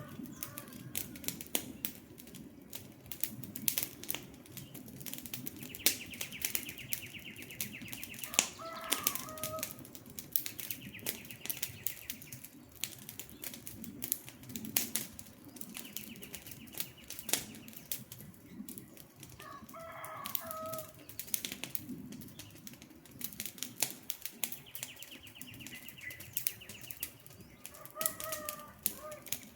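Campfire crackling: many sharp pops and snaps over a low steady hiss of the burning wood. A bird gives a short call about every ten seconds, four times in all. A high, rapid trill comes and goes between the calls.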